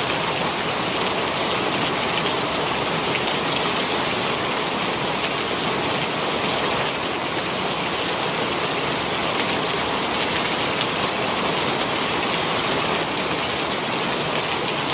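Heavy rain pouring down steadily: a dense, even hiss of falling drops with no let-up.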